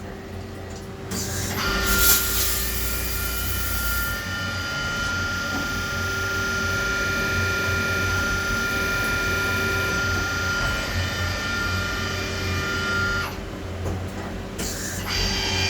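CNC turn-mill lathe machining: a steady high whine with several fixed tones comes in about a second and a half in, with a burst of hiss over its first couple of seconds, and cuts off abruptly about two seconds before the end.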